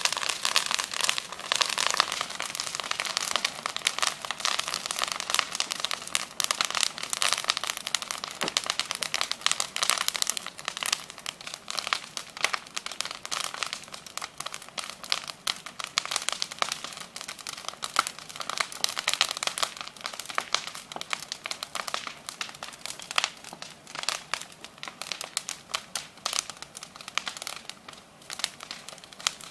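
Bonfire crackling: a dense, continuous run of snaps and pops from burning branches and twigs, somewhat louder in the first half.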